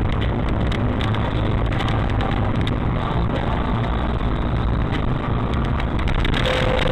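Steady low rumble of a car's engine and tyres on the road while driving, picked up through a dashcam's microphone, with a few light knocks.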